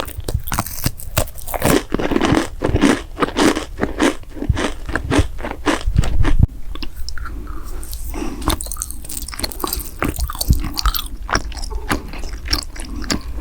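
Close-miked mouth chewing and biting crunchy food, with rapid irregular crunches. About six and a half seconds in the sound changes abruptly to sparser, lighter crunching and chewing.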